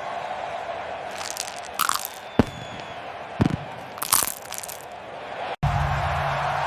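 Popcorn crunching as a bird's beak bites into it: several short, crisp crunches over a steady background hiss. A brief dropout comes near the end, followed by a steady low hum.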